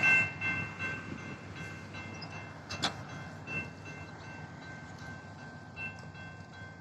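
Railroad crossing's General Signals electronic bell ringing in a steady, even pulse over a train's low rumble, with one sharp clank about three seconds in.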